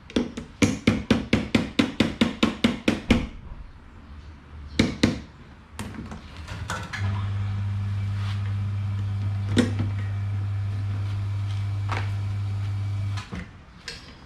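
A quick run of even taps or knocks, about four a second, stops about three seconds in, and a few scattered knocks follow. From about seven seconds a steady electrical mains hum sounds for about six seconds, then cuts off suddenly.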